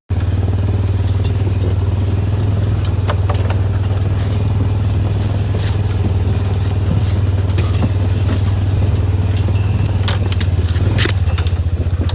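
Truck running, a steady low drone, with scattered light clicks and rattles.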